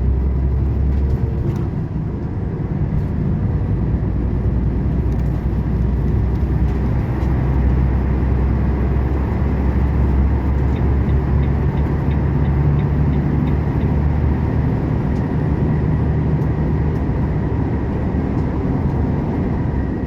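Volvo 450 truck's diesel engine running steadily under load with tyre and road noise, heard from inside the cab as the gravel-laden truck drives onto the highway.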